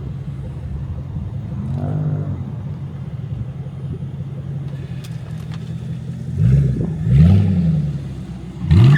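Car engines idling steadily, with a brief rev about two seconds in and several louder revs, each rising and falling in pitch, near the end.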